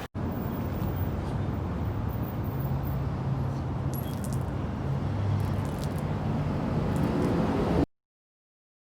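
Steady low hum of a motor vehicle with road noise, and a few faint light clicks or jingles; it cuts off suddenly near the end.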